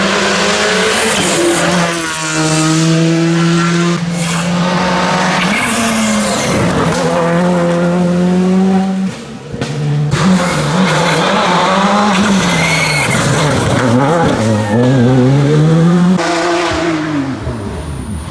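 Rally car engine running hard at high revs, its pitch holding, dropping and climbing again through gear changes and lifts, with tyre squeal. The sound fades near the end.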